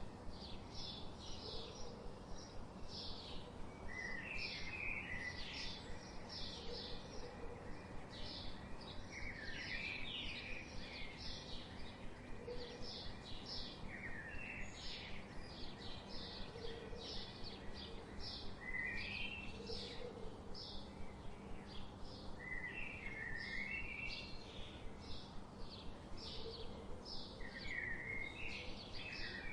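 Songbirds chirping: a steady run of short, high chirps, several a second, with a lower twittering phrase breaking in every four to five seconds.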